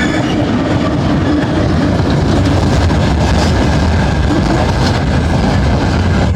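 Freight train headed by a VL80T electric locomotive rolling past, a loud steady rumble and rattle of wheels on the rails.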